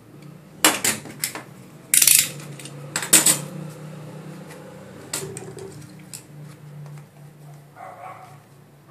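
Hard objects being handled and set down, clattering and clinking in several bursts, the loudest about two and three seconds in, over a steady low hum.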